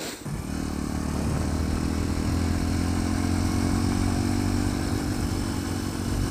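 Sinnis Apache 125 single-cylinder motorcycle engine: it goes from a quiet, pulsing idle to pulling away right at the start, then runs steadily under way, with wind noise on the microphone.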